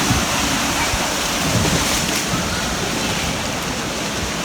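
Loud, steady rush of water from a waterpark tube slide and its pools, with wind noise on the microphone.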